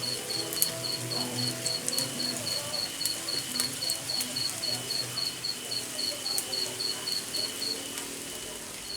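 An insect chirping in an even, high-pitched pulse about four times a second, stopping briefly near the end, over soft background music.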